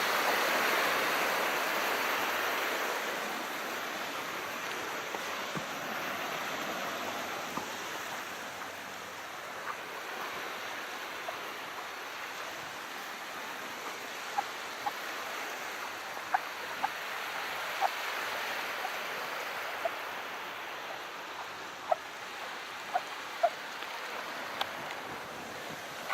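Calm sea water washing: a swell of surf at the start that eases into a steady wash, with about ten small sharp ticks scattered through the second half.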